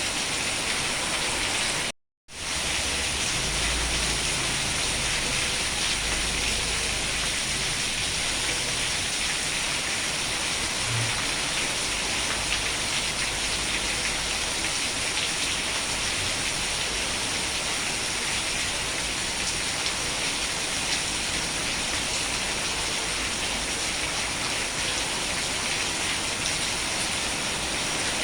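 Steady rain falling, an even hiss of many drops. The sound cuts out completely for a fraction of a second about two seconds in.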